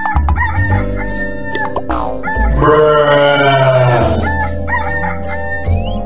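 One long animal call lasting about two seconds, falling in pitch, near the middle, over background music with steady notes.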